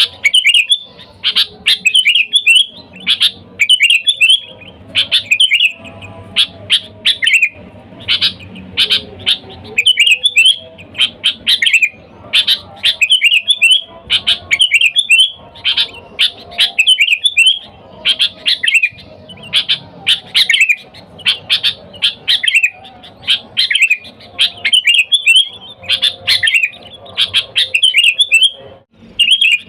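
Sooty-headed bulbul (kutilang) calling in a lively way: short, bubbly chirping phrases repeated about twice a second.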